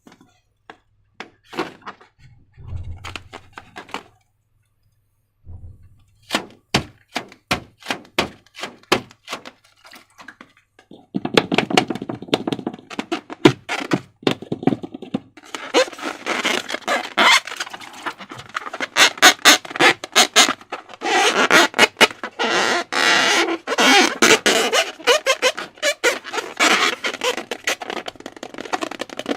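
Slime being worked by hand. It starts with a few scattered sticky clicks, then about three sharp clicks a second, and from about eleven seconds in turns to dense, continuous crackling.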